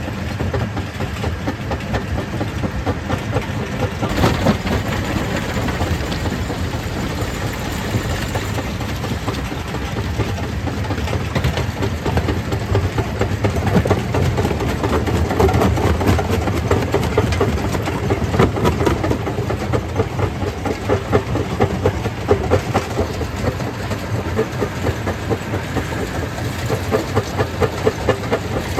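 Stone crusher machine running under load, with a continuous dense clatter of rock being broken and knocking inside it. A sharper knock comes about four seconds in.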